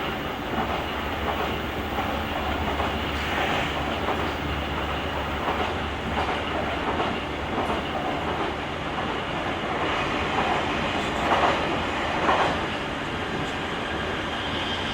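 Running noise of a JR Kyushu 883-series limited express train as heard from the vestibule deck inside the car: a steady rolling rumble with wheels clicking over rail joints. Two louder knocks come about 11 and 12 seconds in.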